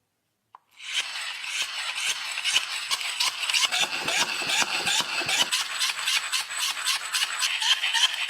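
Continuous rattling and scraping of small hard parts, full of rapid sharp clicks, starting abruptly about a second in after one faint click.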